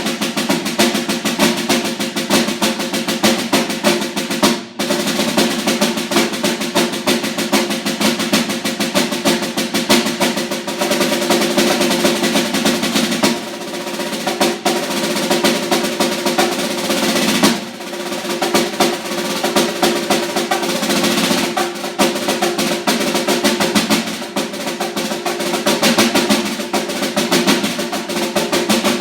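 Solo snare drum played with sticks: fast, dense stick strokes and rolls, with a brief break about five seconds in and a sustained roll in the middle.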